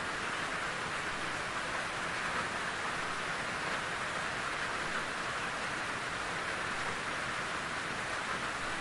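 Steady rain falling, an even hiss of drops with no breaks or distinct drips standing out.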